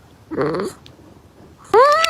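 A cat meowing twice: a short, low meow about half a second in, then a longer meow rising in pitch near the end.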